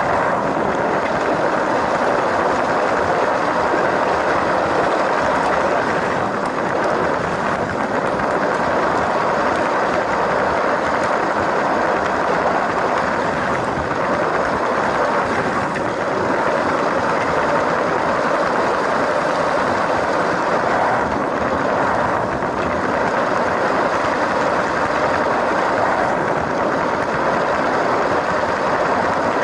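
LEGO train's electric motor and plastic wheels running steadily along plastic track, a continuous whirring rattle.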